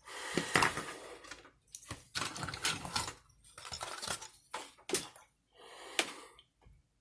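A series of sharp clicks and short scraping rustles from small hard parts being handled close up, in about six separate bursts with brief pauses between them.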